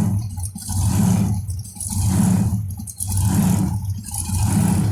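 Supercharged engine of a blown '57 Chevy heard from inside the car while driving, its low rumble surging and easing in an even rhythm about once a second, five surges in all. The owner puts this surging down to the blower building pressure that the engine lets out in step with the firing order.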